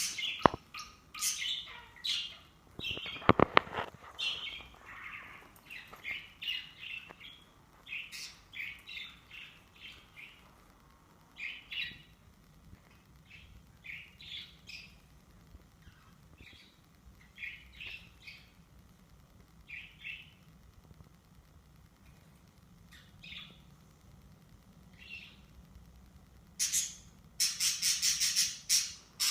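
Two small birds chirping and squawking as they fight, in short irregular calls. There is a brief rattling burst about three seconds in, and near the end a fast run of loud, harsh squawks at about four or five a second.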